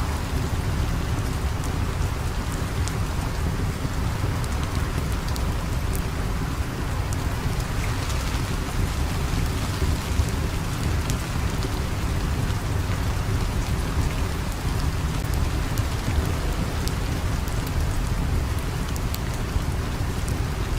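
Steady rain with a deep, constant rumble underneath and scattered sharp clicks.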